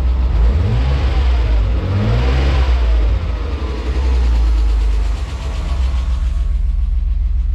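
BMW M50B20TU straight-six engine given a brief rev that rises and falls about a second in, then settles back to idle. It is running with the ticking sound that the owner cannot explain, in an engine that sat dry for about two years.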